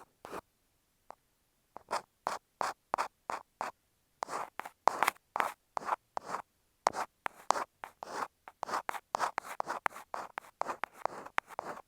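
Ear pick scratching against an earphone microphone: short, dry scraping strokes, a couple a second at first and then in quicker clusters, with brief silences between them.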